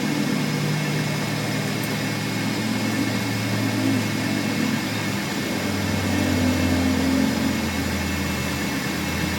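A machine motor running steadily with a low hum; its tone shifts lower about five and a half seconds in.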